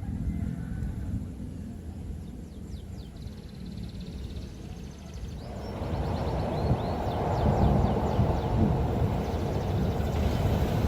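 Low rumble of an approaching train, growing louder from about halfway through, with faint high chirps over it.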